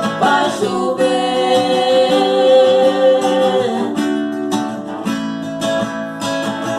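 Praise song with strummed acoustic guitar and a singing voice that slides up into one long held note for about three seconds, then the guitar strumming carries on.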